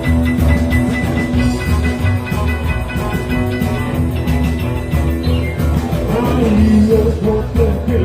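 Rock-and-roll band music with a steady beat, an instrumental stretch between sung verses.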